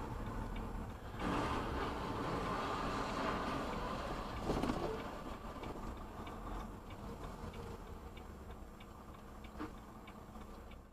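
Road and engine noise of a moving car heard from inside, with a light regular ticking about two to three times a second and a single knock about four and a half seconds in.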